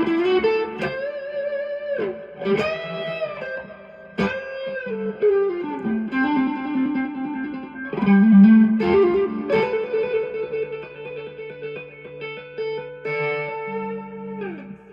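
Electric guitar (a Stratocaster) playing blues lead lines through a Bluesbreaker-style overdrive stacked into a TS10 Tube Screamer, then a Two-Rock Studio Pro 35 amp, with delay. Lightly driven single notes with string bends and vibrato, mixed with chords. The playing stops near the end and the last note rings out and fades.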